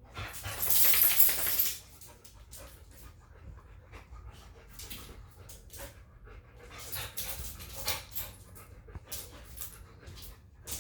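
Dogs playing and panting: a loud noisy rush for the first couple of seconds, then short rustles and clicks.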